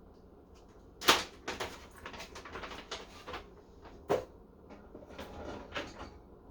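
Kitchen clatter: a sharp knock about a second in, then a run of light clinks and rattles, and a second sharp knock about four seconds in.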